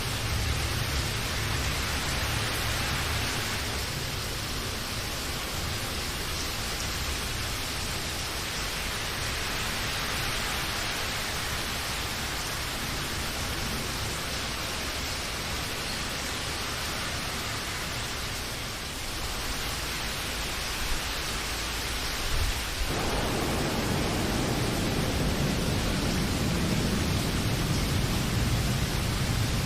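Steady heavy rain, an even hiss with a deep low rumble underneath. About 23 seconds in the sound abruptly turns fuller and a little louder in its lower range.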